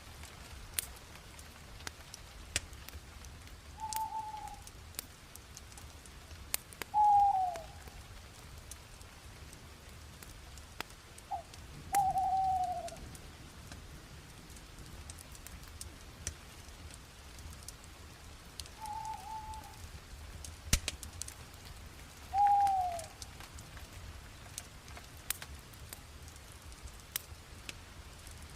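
Wood fire crackling with scattered sharp pops over a low hiss. A bird calls six times, each a short note that slides down in pitch, spaced a few seconds apart; these calls are louder than the fire.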